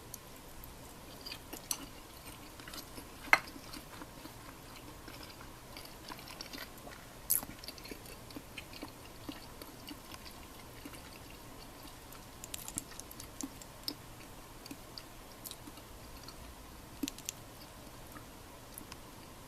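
Someone eating quietly: soft chewing with scattered light clicks. The sharpest click comes about three seconds in, and more cluster near the end, all over a faint steady hiss.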